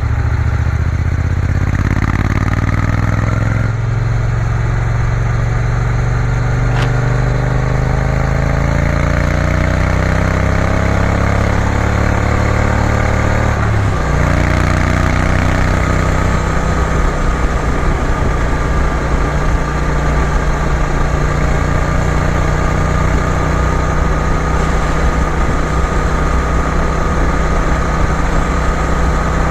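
Triumph Bonneville T120's parallel-twin engine running on the move. Its note rises for several seconds, drops sharply about halfway through, then holds steady.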